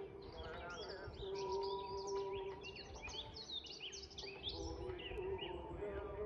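Several birds singing from the forest, a dense run of quick, high chirping phrases, over a steady low hum.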